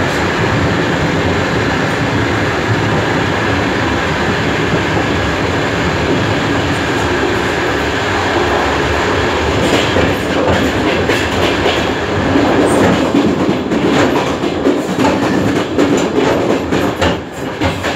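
DR1A diesel multiple unit running at speed: a steady, loud rumble of the train with wheels clattering over rail joints. The clacks turn sharper and more frequent about halfway through.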